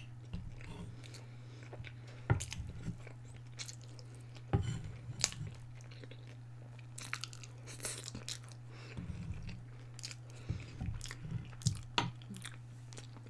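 Close-miked chewing and crunching of breaded chicken strips in short irregular spells, with a few sharp clicks of a knife and fork on a wooden board, over a steady low hum.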